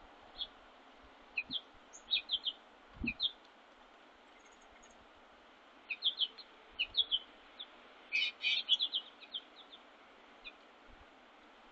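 Small songbirds giving short, high chirps in scattered bursts, busiest about two seconds in and again after six seconds, with a few soft low thumps.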